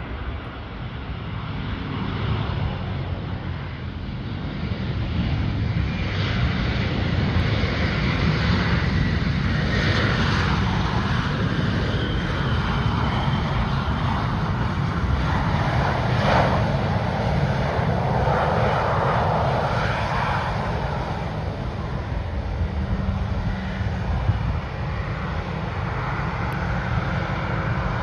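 Airliner engines running as a plane moves past on the runway. The sound swells over the first several seconds, holds loud for a while, then eases off a little.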